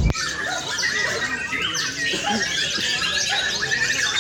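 Several white-rumped shamas singing at once, a dense tangle of overlapping whistles, chirps and quick rising and falling phrases, with a sharp knock right at the start.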